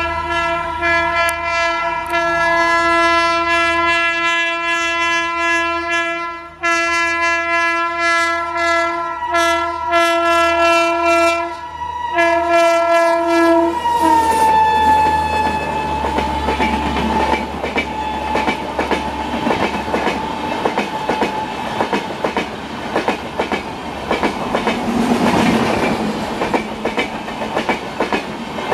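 An Indian Railways electric locomotive sounding its horn in a long blast, with two short breaks, as it approaches at speed; about fourteen seconds in the horn's pitch drops and fades as the engine passes. Then the passenger coaches rush by with a fast, steady clickety-clack of wheels over the rail joints.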